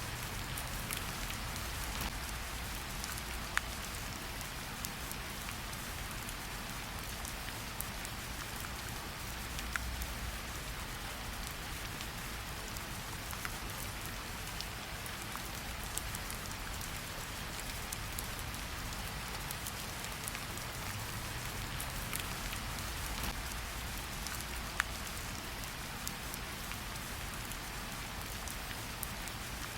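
Steady rain: an even hiss over a low rumble, with single sharp drop ticks scattered through it.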